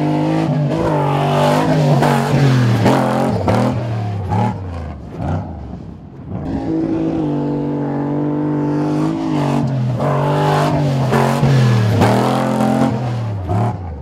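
Off-road race truck's engine running hard, held steady at first, then rising and falling in pitch again and again as the throttle goes on and off through the moguls. It eases off about six seconds in, holds steady, then does the same again before dropping away near the end.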